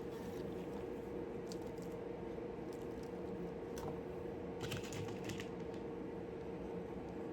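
A few light clicks and taps, with a small cluster about five seconds in, over a steady low hum.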